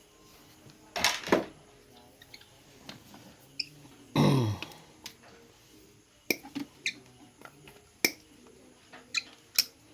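Sharp clicks and snaps of pliers or wire cutters working on a washing machine's wiring, coming irregularly about eight times. There is a louder cluster about a second in, and a brief sound falling in pitch about four seconds in.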